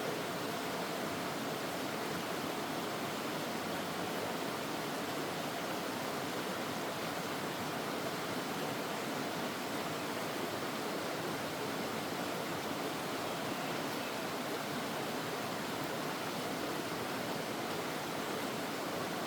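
Mountain stream flowing, a steady, unchanging rush of water.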